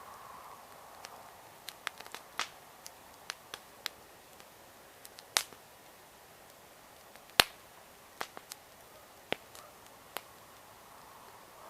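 Wood campfire crackling: irregular sharp pops and snaps over a faint steady hiss, the two loudest pops a little past five and seven seconds in.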